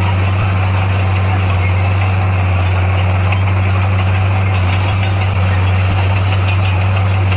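Heavy construction machine's diesel engine running steadily at an unchanging pitch, a constant deep drone.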